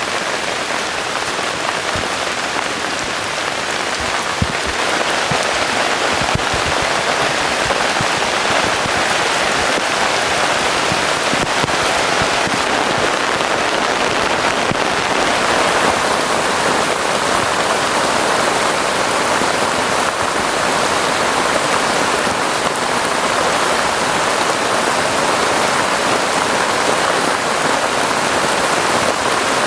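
Heavy rain falling steadily, a dense hiss with scattered sharper drop hits in the first several seconds, growing a little louder about five seconds in.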